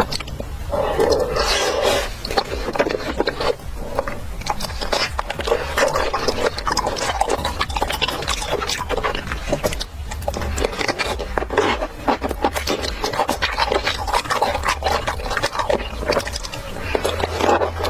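Close-miked chewing and mouth sounds of someone eating, a steady run of wet smacks and crunchy clicks.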